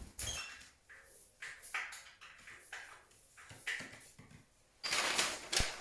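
Pet canaries giving short, scattered chirps with quiet gaps between them, then a louder rustling noise with a sharp click about five seconds in.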